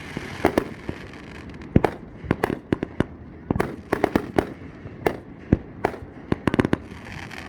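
Fireworks going off: many sharp bangs and crackling pops in quick, irregular succession, some bunched in rapid clusters.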